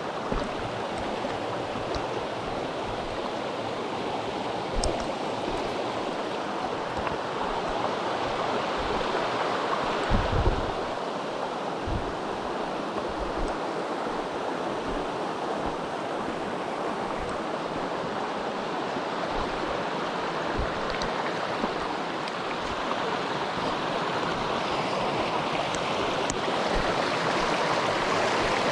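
Mountain stream rushing steadily over rocks, growing a little louder near the end. A few short low thumps break through, the strongest about ten seconds in.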